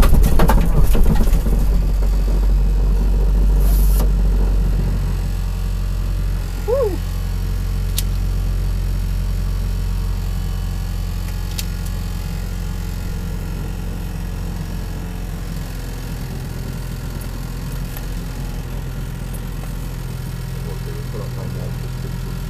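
Rally car's engine idling steadily at a standstill, heard from inside the cabin. At the start the car is still rolling over gravel, and the tyre crunch dies away within the first second or two.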